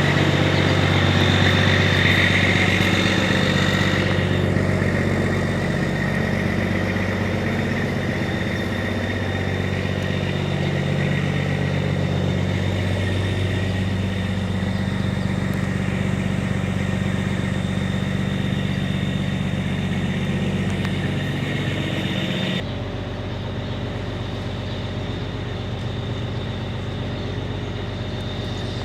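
Scania truck's diesel engine idling steadily. Near the end the sound abruptly turns quieter and duller.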